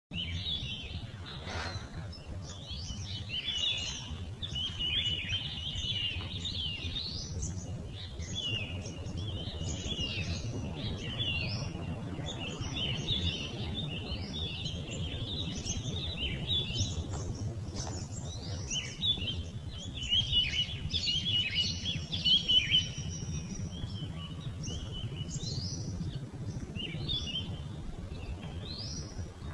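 Several birds chirping and singing in a continuous, overlapping chorus of quick high notes, over a steady low rumble.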